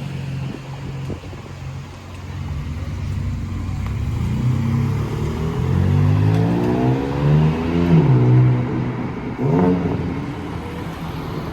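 Car engine accelerating hard, its note climbing and dropping back about three times, loudest around eight seconds in.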